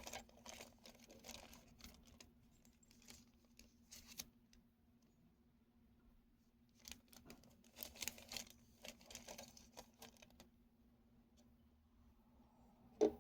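Faint intermittent rustling and light clicks, in two bursts separated by quiet gaps, over a faint steady low hum.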